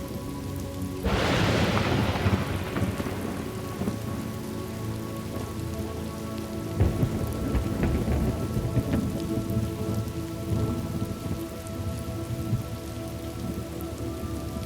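Steady rain with thunder: a sharp thunderclap about a second in that fades away over a couple of seconds, then a lower rolling rumble around the middle.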